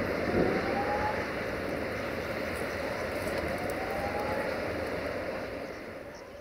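Train rolling past, a steady rushing rail noise with two faint rising whines, fading away over the last second as it moves off.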